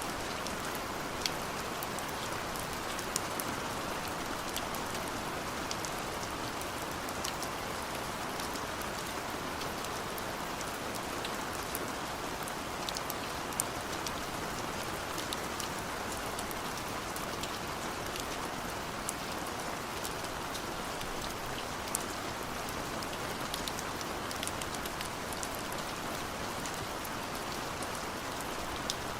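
Steady rain falling, a constant hiss with frequent sharp drop clicks scattered through it.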